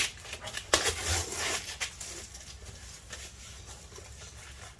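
Cardboard box and packing being handled as a heavy forge body is lifted out: a few short scraping, rustling noises in the first second and a half, then only quiet handling.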